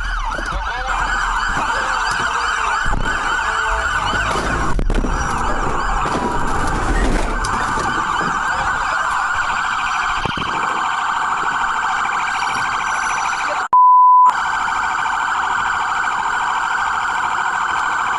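Police car siren sounding continuously in a fast warble, with engine and road rumble underneath during the first seven seconds. About three-quarters through, the siren drops out for half a second behind a loud, steady single-pitch beep.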